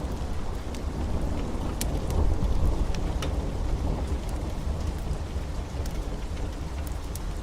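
Heavy, steady rain with a low rumble of thunder that swells about two to three seconds in, and scattered sharp ticks over the top.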